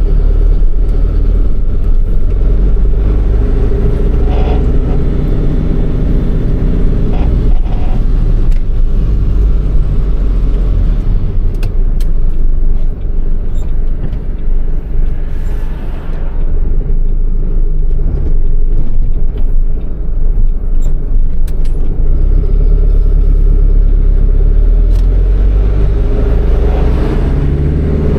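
MAN truck's diesel engine running under way, heard from inside the cab as a steady low rumble. Its pitch climbs over the first several seconds as it pulls away, then settles, with a few faint ticks in the middle.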